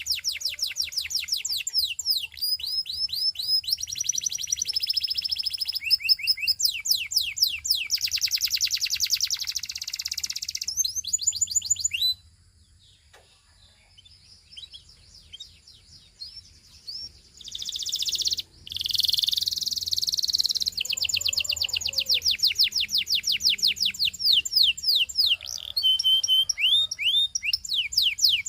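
Domestic canary singing in fast trills of rapidly repeated high notes, one run after another. The song breaks off for a few seconds about halfway through, then starts again.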